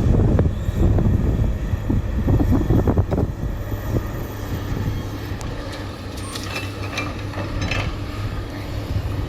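JCB 3DX backhoe loader's diesel engine running steadily, with clanking and rattling for the first three seconds or so and a few sharp metallic clicks later.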